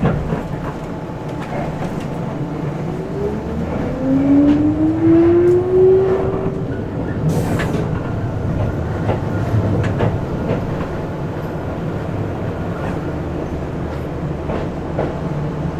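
Keisei 3400-series electric train running, heard on board: steady rumble with clicking wheels over rail joints. A whine rises in pitch from about three seconds in and fades out around seven seconds, and a short hiss follows just after.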